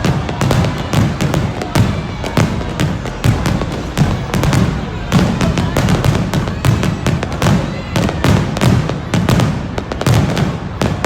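Fireworks going off continuously: dense, irregular bangs several times a second over a deep rumble.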